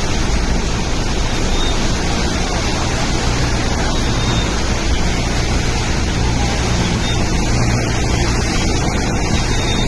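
Steady, loud rushing noise with a low hum underneath.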